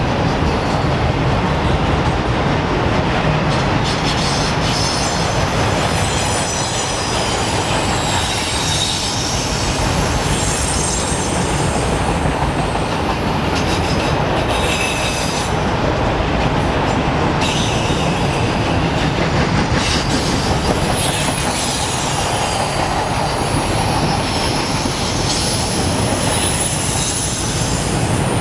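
Freight train of enclosed autorack cars rolling past: a steady rumble of steel wheels on rail, with high-pitched wheel squeal coming and going over it.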